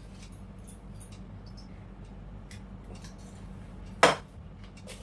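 Small clicks and clinks of bowls and utensils while fuchka are filled, with one sharp click about four seconds in, over a steady low hum.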